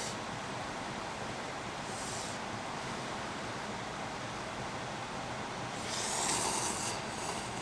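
Steady rain falling, an even hiss, with a brief louder rustling swell about six seconds in.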